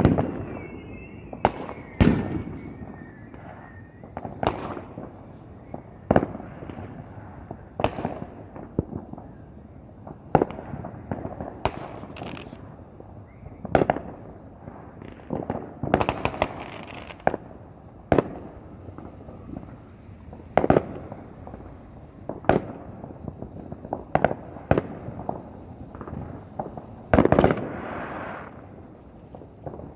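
Fireworks going off: a string of sharp bangs every second or two, a couple of them trailing into longer crackling bursts midway and near the end. A faint wavering whistle sounds in the first few seconds.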